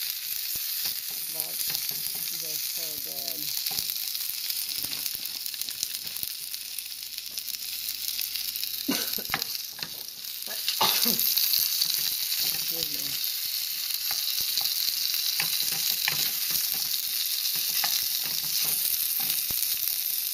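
Beef dumplings sizzling in oil in a nonstick skillet as they brown, a steady hissing fry that gets louder about eleven seconds in. Just before that come a few knocks and scrapes of a wooden spatula against the pan as the dumplings are turned.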